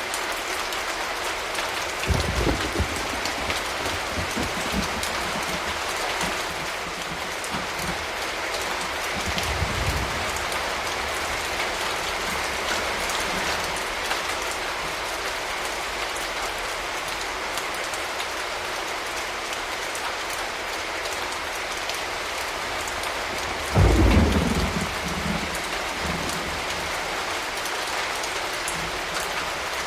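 Steady rain falling, with thunder rumbling three times: briefly about two seconds in, again around ten seconds, and loudest about four-fifths of the way through.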